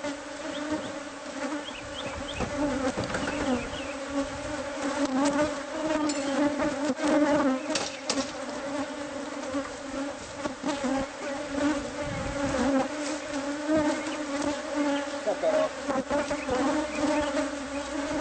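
Honeybees from a colony inside a house wall buzzing in numbers, a steady drone that wavers in pitch, with a few short knocks here and there.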